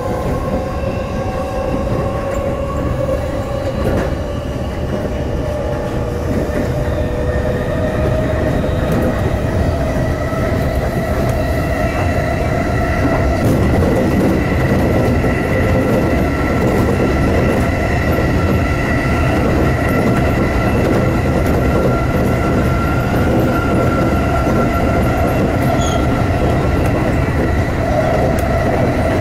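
Electric commuter train running, heard from on board: a steady rumble of wheels on the rails with a high whine that rises slowly in pitch as the train gains speed. About 13 seconds in the running noise grows louder as the train enters a tunnel.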